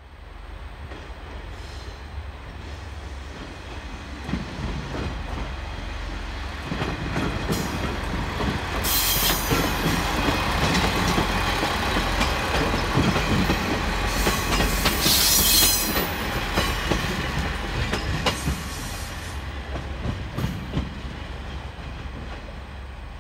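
The "Aru Ressha" diesel railcar train passing by on the track, its rumble and wheel noise building, loudest midway, then easing as it moves off. Two short bursts of high hiss come partway through, about 9 and 15 seconds in.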